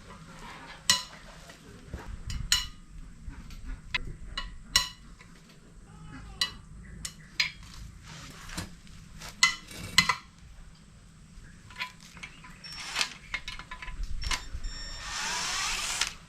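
Metal engine parts and hand tools clinking and clanking during an engine teardown, some strikes ringing briefly. Near the end a power tool starts whirring.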